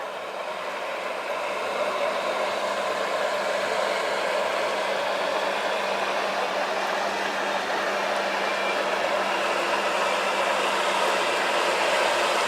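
Outboard motor of a pontoon boat running steadily as the boat goes down the river, the hum slowly growing louder.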